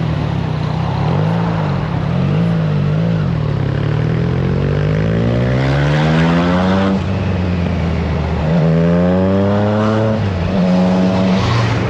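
Triumph Trident 660's inline three-cylinder engine through a FireTong aftermarket exhaust, heard from on the bike. It runs at a wavering steady pitch, then pulls up twice with rising pitch, each pull dropping sharply at an upshift about seven and ten seconds in. Wind noise runs underneath.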